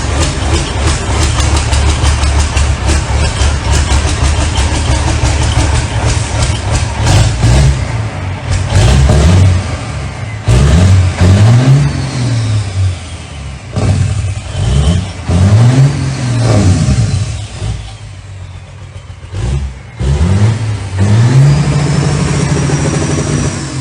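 Diesel pickup truck engine running loud with a dense clatter, then revved up and let back down several times in quick succession.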